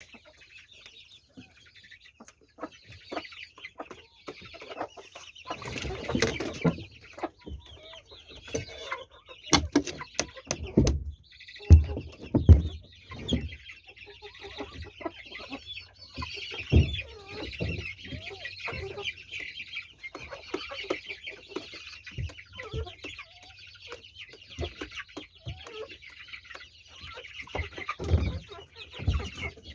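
Chickens clucking on and off, with a dense high chattering of calls through the second half. Several sharp knocks or thumps cut through, the loudest twice in quick succession a little before halfway.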